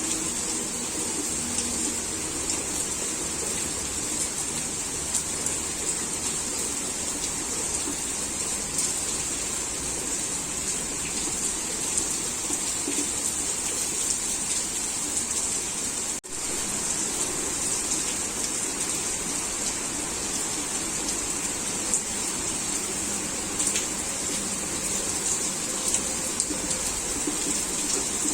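Heavy rain falling steadily, an even hiss with scattered drop ticks. The sound cuts out for a split second about 16 seconds in.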